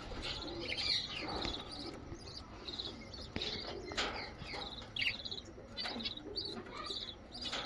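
Budgerigars chirping and warbling, a continuous run of short quick calls, with a few sharp clicks mixed in.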